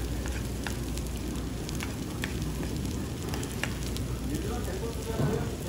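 Pork belly and kimchi fried rice sizzling on a hot flat griddle, a steady hiss with scattered light clicks and scrapes of a spatula against the pan.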